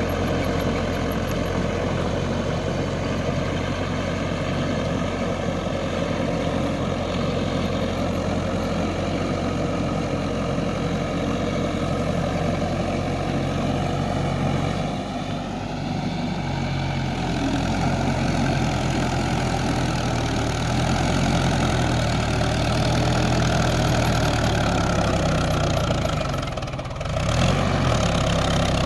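Mahindra 575 DI tractor's four-cylinder diesel engine running steadily. Its pitch shifts about halfway through, and it briefly drops in loudness near the end.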